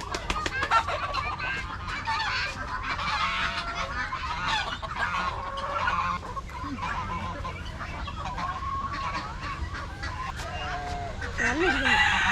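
Farmyard poultry calling all together: a dense, continuous chorus of honking and clucking from many birds, busiest near the end.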